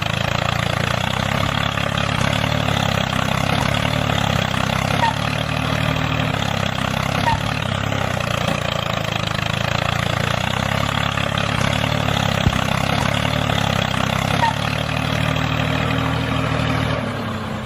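A tractor engine running steadily at an even idle, then cutting off just before the end.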